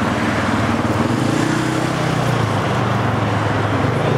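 Vehicle engines running steadily over road noise, one engine's pitch rising and falling briefly about a second in.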